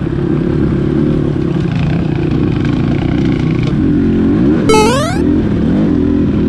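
Dirt bike engine running steadily, its pitch rising and falling from about two-thirds of the way in, with one sharp quick rev up near the end.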